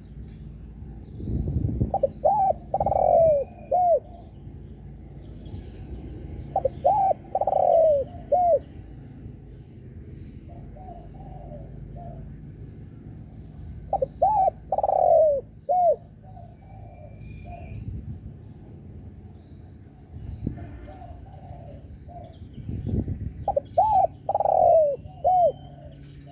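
Spotted dove cooing: four phrases of three or four low notes, each with one longer drawn-out note, spaced several seconds apart, with softer coos between them. Faint chirps of small birds sound in the background.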